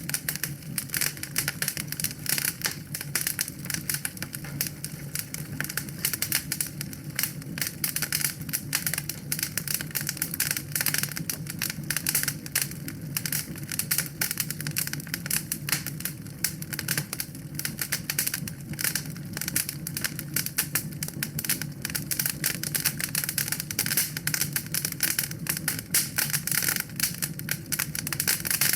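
Wood fire burning in a fireplace, crackling and popping continuously in dense, irregular snaps over a low steady rumble of the flames.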